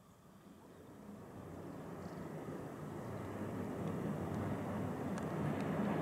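Distant passenger train hauled by an ASEA-built electric locomotive, its rumble growing steadily louder as it comes out of a tunnel onto a viaduct.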